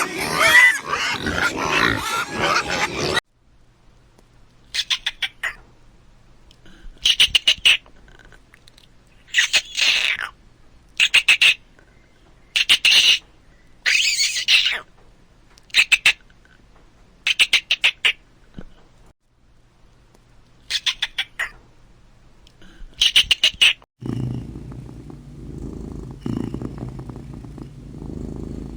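A pig grunting and squealing for the first few seconds, then a series of about a dozen short, high, rasping animal calls spaced a second or two apart, and near the end a cat purring steadily.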